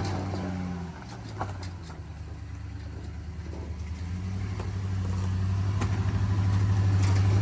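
Off-road truck's engine running steadily at low revs while rock crawling, growing louder from about two seconds in, with a few faint knocks.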